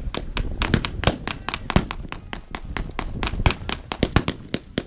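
Blank gunfire in a mock WW2 battle: many sharp, irregular shots, several a second, overlapping from more than one weapon.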